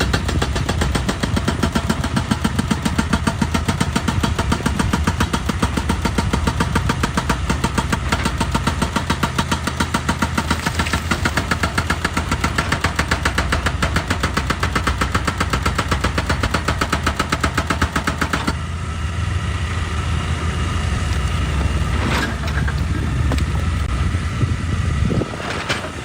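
Excavator engine running steadily with a fast, even throb. About 18 seconds in the sound changes and turns less hissy, and a couple of sharp knocks come near the end.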